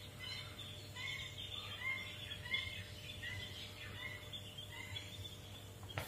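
Faint birds chirping, short repeated calls at irregular intervals, over a steady low hum.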